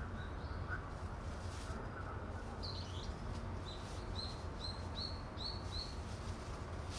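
A bird calling: one call about three seconds in, then a quick run of about six short chirps, over a steady low rumble.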